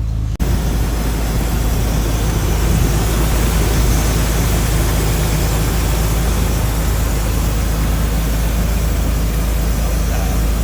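Off-road 4x4 truck engine running steadily under a loud, even rushing noise; the sound cuts out for an instant about half a second in, then carries on.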